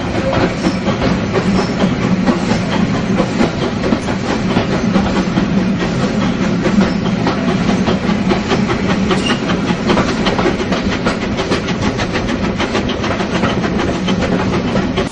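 Heritage railway train running, with a dense, rapid clatter over a steady low rumble.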